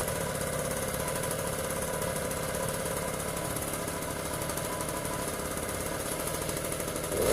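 Small engine of a motorized BMX bicycle running steadily at idle with a fast, even pulse. It picks up briefly right at the end.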